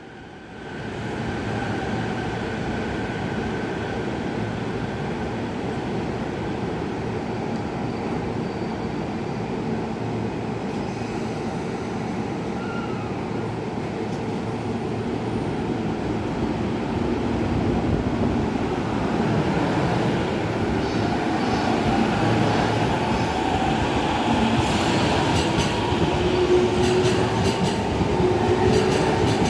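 Steady rumbling vehicle noise that builds up about a second in and grows louder over the last third, with faint high squealing tones near the end.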